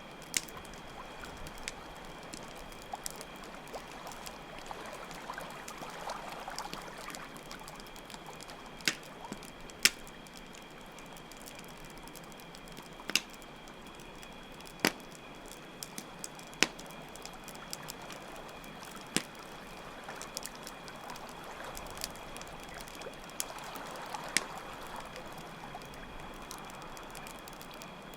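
Campfire crackling, with sharp pops every second or two, over the sound of running water and a steady high chirring of crickets.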